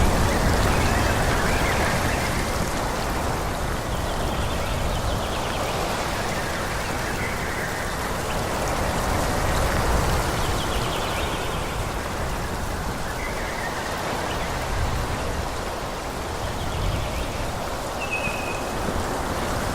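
Wind rushing through forest trees, rising and easing in gusts, with a few short high chirps now and then.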